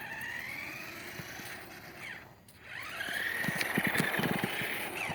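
Remote-control truck's electric motor whining as it speeds up, easing off about two seconds in, then climbing again and holding. A quick run of knocks comes as the truck runs over rough ground.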